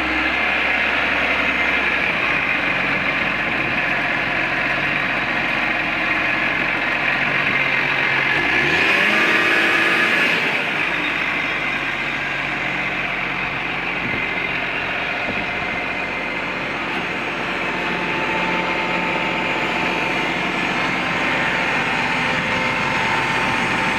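Diesel engine of a 2007 Case IH 215 Magnum tractor running steadily, revving up briefly about nine seconds in before settling back to a steady run.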